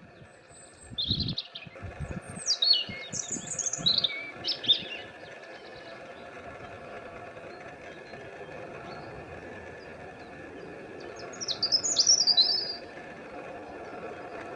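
A songbird singing two bursts of quick, high, falling notes, the first from about a second in and a second shorter one near the end, over steady background noise.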